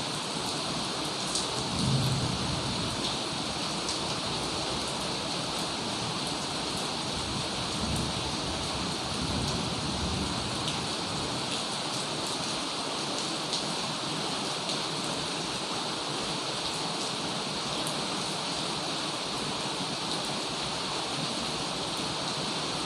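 Heavy rain falling steadily, a dense even hiss with scattered sharp drop ticks. Low rumbles, likely distant thunder, swell about two seconds in and again around eight to ten seconds.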